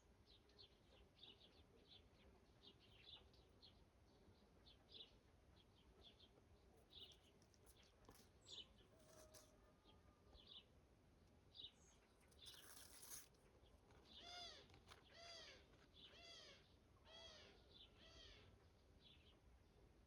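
Faint bird calls: many short, high chirps throughout, with a brief rustling hiss a little past halfway. In the last third comes a run of about five fuller calls, each rising and then falling in pitch, roughly one a second.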